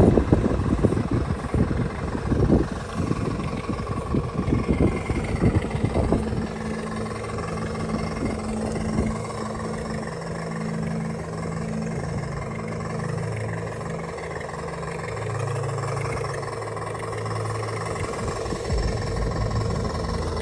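Running sound of the scale Land Rover Defender crawler's drive. Irregular knocks and clatter come in the first few seconds, then a steady low engine-like drone that shifts pitch in steps.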